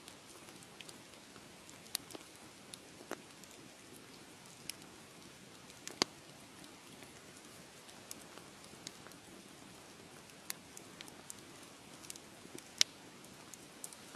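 Wood fire crackling: a soft steady hiss with scattered sharp pops and snaps, the loudest about six seconds in and another near the end.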